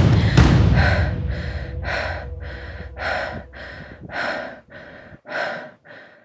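A person panting hard, with quick breaths about two a second that grow quieter toward the end.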